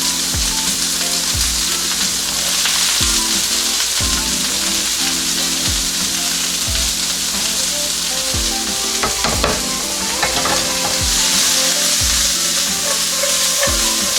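Onions frying in hot oil in a sauté pan: a steady sizzle, with a few stirring clatters from the utensil about two-thirds of the way through.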